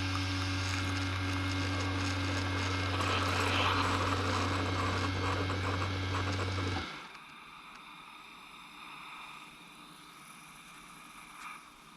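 Keurig K-Mini single-serve coffee maker brewing: its pump hums steadily under a hiss of hot water being pushed through the pod. It cuts off suddenly about seven seconds in, the end of the brew cycle, leaving only a faint hiss.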